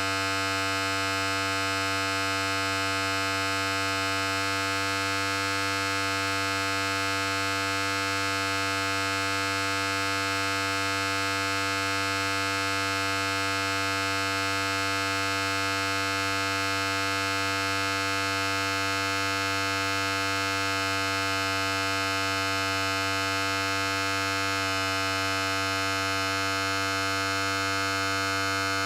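Electric hair clipper running continuously: a steady buzz with many overtones, its tone shifting slightly about 25 seconds in.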